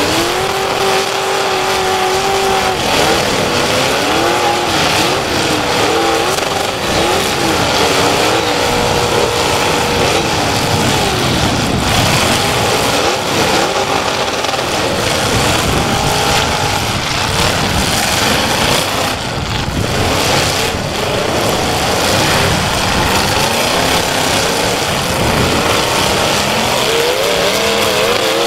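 Demolition derby cars' engines revving hard, several at once, their pitch rising and falling over a dense din of exhaust noise.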